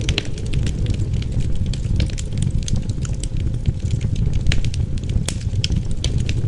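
Wood fire crackling in a fireplace, with frequent irregular snaps and pops over a steady low rumble of wind.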